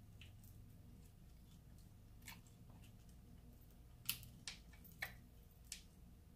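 Sharp cracks and clicks of king crab leg shell being cracked and picked apart: five short snaps over a faint low hum, the loudest about four seconds in.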